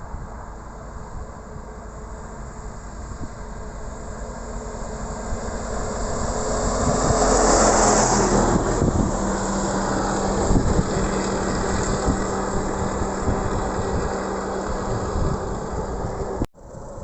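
1954 Bedford fire engine's engine running as the vehicle moves past, building to its loudest about halfway through, then settling into a steady hum. The sound cuts out for a moment near the end.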